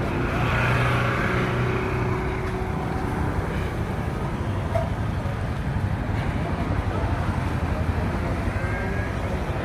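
Steady outdoor street noise, mostly a low rumble like road traffic, with no distinct events.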